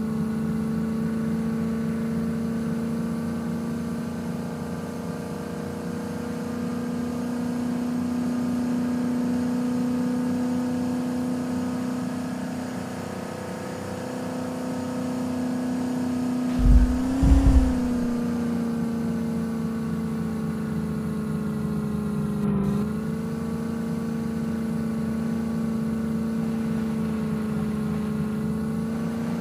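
Small Maruti hatchback's engine running steadily while driving, its hum drifting slightly up and down in pitch. A few low thumps come about two-thirds of the way through.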